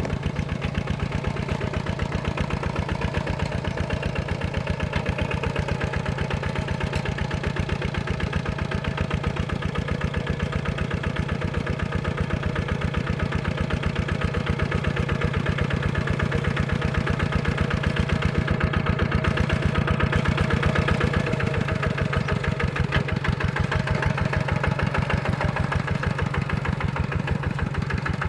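Single-cylinder Kubota diesel engine of a tractor running steadily with a fast, even thudding beat, getting a little louder about two-thirds of the way through.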